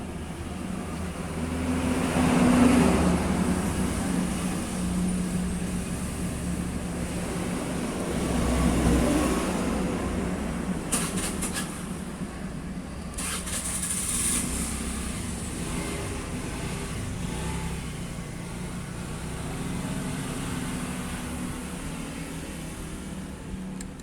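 Motor vehicle noise over a steady low hum, swelling louder twice, about two and nine seconds in, as if vehicles pass, with a few sharp clicks near the middle.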